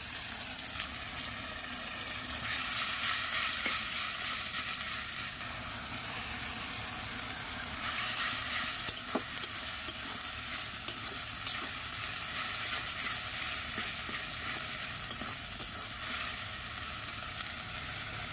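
Ground paste of ginger, garlic, cumin, coriander and onion sizzling in hot mustard oil in a metal karahi, stirred with a metal spatula. The frying hiss swells as the paste is worked, and the spatula gives a few sharp clicks against the pan in the second half.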